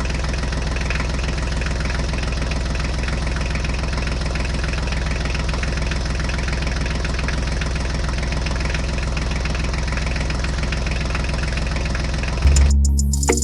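An engine idling steadily with a rapid, even knock that does not change speed. Music comes in near the end.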